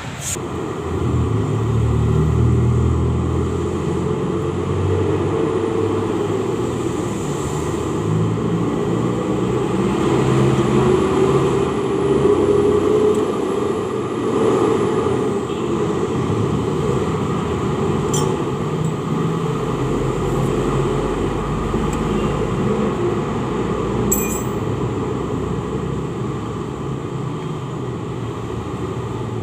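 Motor vehicle engines running and passing by, a continuous rumble with a pitch that rises and falls slowly in the middle, and a few sharp clicks.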